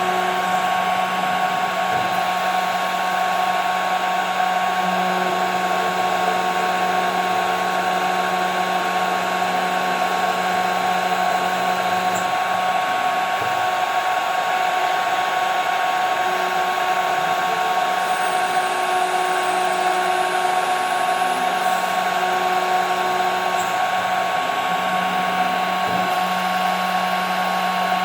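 CNC machine spindle running steadily as it cuts 5 mm plexiglass, giving an even whine with a hiss underneath.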